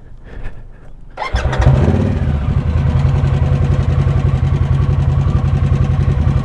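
Harley-Davidson motorcycle's V-twin engine starting about a second in, catching at once and then idling steadily.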